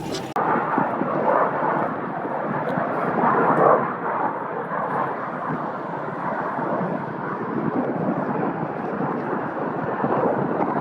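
Steady rushing roar of a jet aircraft passing overhead, swelling briefly about three and a half seconds in.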